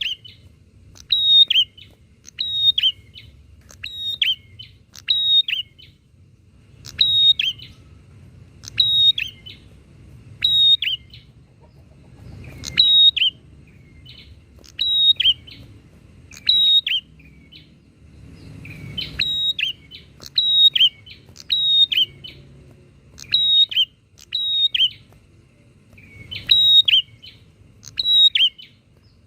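Prinias (prenjak) calling back and forth: short, sharp notes that drop slightly in pitch, repeated about once a second in runs with short breaks, over a faint low rumble.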